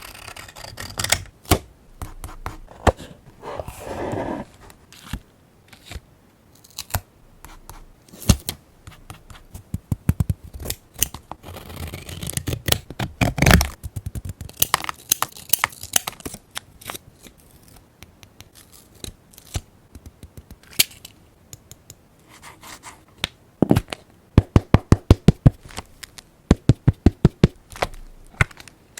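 Close-up paper-crafting sounds: paper being handled, rubbed and scraped, with scattered sharp clicks. Near the end comes a quick run of sharp snips, about four a second, like scissors cutting paper.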